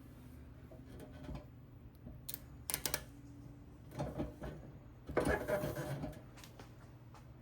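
Handling noises: scattered clicks and short rattling, scraping bursts over a steady low hum, the loudest lasting about a second about five seconds in.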